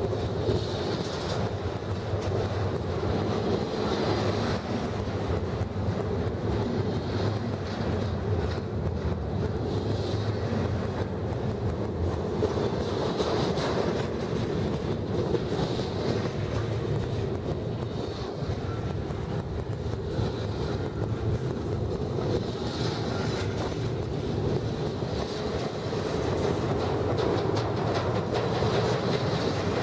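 BNSF double-stack intermodal train's container well cars rolling past close by: a steady rumble of steel wheels on rail, with a higher-pitched swell about every two and a half seconds.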